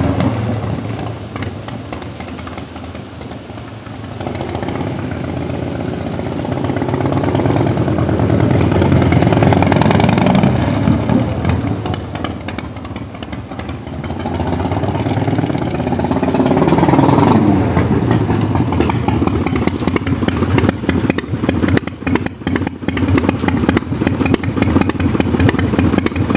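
1997 Harley-Davidson Bad Boy's carbureted Evolution 1340 V-twin running, its sound swelling and fading twice, then running close with a choppy, uneven beat near the end.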